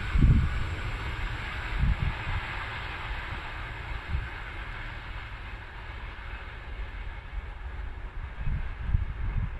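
Passenger train rolling away along the track, its wheel-on-rail noise slowly fading. Low gusts of wind buffet the microphone near the start and again near the end.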